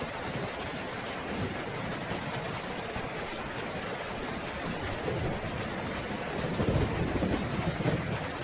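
Steady heavy rain with a low roll of thunder rumbling in, strongest in the second half.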